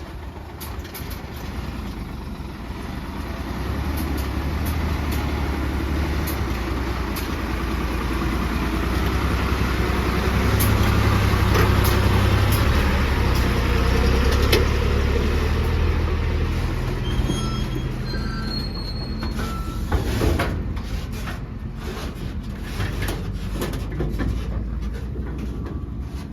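Heavy diesel earthmoving machinery running. The low engine rumble grows louder to a peak about halfway through, then fades, with a few short high squeals and a sharp knock near the end.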